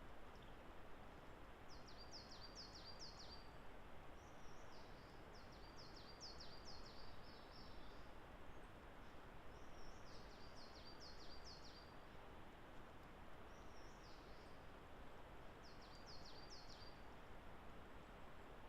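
A songbird singing faintly in short phrases of quick high notes, five phrases a few seconds apart, over a steady background hiss.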